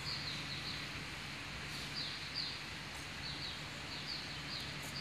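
Small birds chirping: short, high chirps that slide downward, repeated irregularly about twice a second, over a steady outdoor background hiss.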